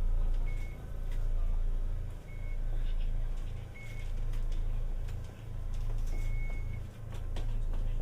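Inside a Tokyu Setagaya Line 300-series tram: a low hum that swells and fades about every second and a half, with short high beeps now and then.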